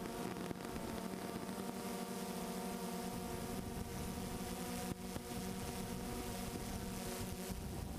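A multirotor drone's electric motors and propellers humming steadily as it flies, a held chord of several whining tones with a brief dip about five seconds in.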